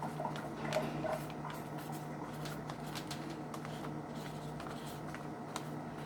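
Small kitchen handling sounds: light rustles and clicks, busiest in the first second or so, over a steady low hum.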